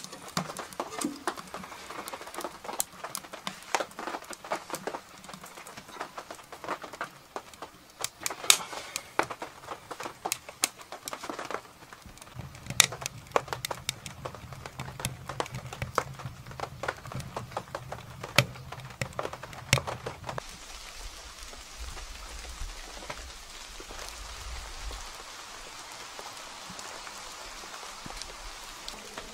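Rain on a canvas tent: scattered sharp drips and taps over a soft patter, giving way about two-thirds of the way through to a steady, even hiss of rain.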